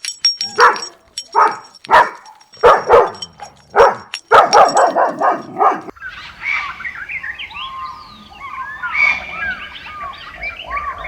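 A dog barking repeatedly, about seven barks, then an abrupt cut about six seconds in to many small birds chirping together.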